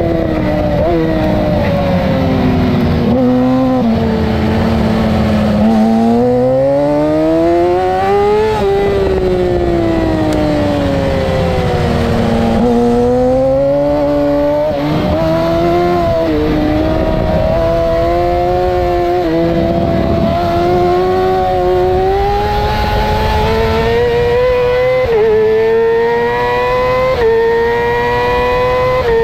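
2008 Yamaha R6's inline-four engine at racing speed, heard from on the bike with wind rushing past. The engine note falls as the rider slows for corners and rises hard out of them, and near the end climbs in steps with short dips at each upshift.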